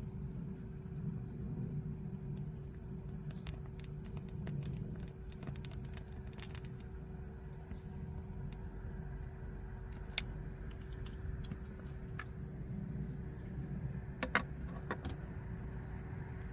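Steady low rumble of traffic on a nearby road, with scattered light clicks and taps over it, the sharpest about ten and fourteen seconds in.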